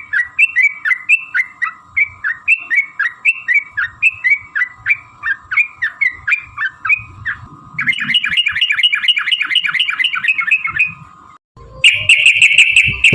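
Yellow-vented bulbuls calling in a rapid series of short up-and-down chirps, about three a second, breaking into a faster trilled run about eight seconds in; after a brief pause near the end another fast, dense run starts. A faint steady tone sits underneath.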